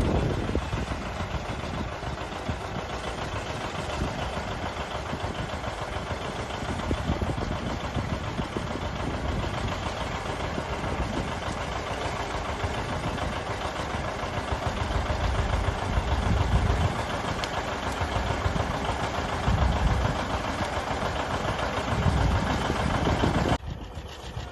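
Farm tractor engine running steadily amid dense mechanical noise, with a few louder low swells in the second half; the sound drops off abruptly near the end.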